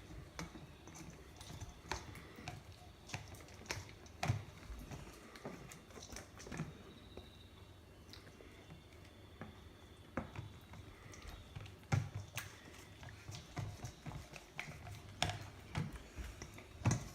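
Slime being kneaded and pulled by hand: quiet, irregular sticky clicks and squelches.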